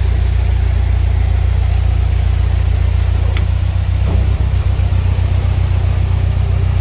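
Narrowboat's diesel engine running steadily at low revs, a loud, even low throb.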